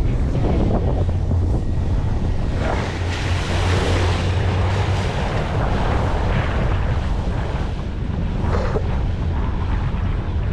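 Motorboat underway: a steady low engine drone under rushing water and wind buffeting the microphone.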